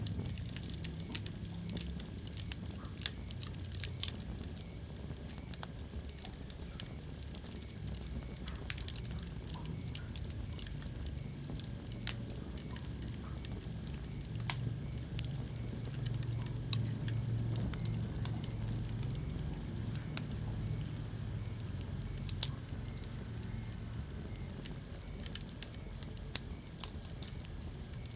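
Wood fire crackling in a fireplace: irregular small snaps and a few louder pops over a steady low rumble of burning.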